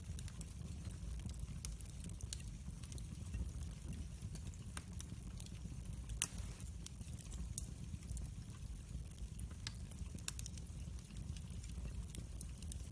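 Wood fire burning: a steady low rumble of flames with scattered sharp crackles and pops, one louder pop about six seconds in.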